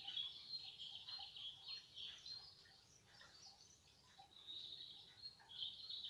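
Faint birdsong: small birds chirping and twittering in quick high phrases, with louder clusters near the start and again near the end.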